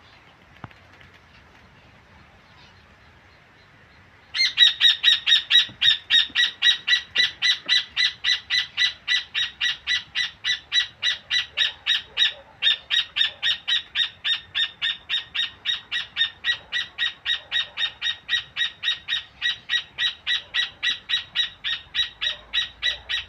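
Rufous hornero singing: a long, loud series of evenly repeated sharp notes, about four a second, starting about four seconds in, with one brief pause midway.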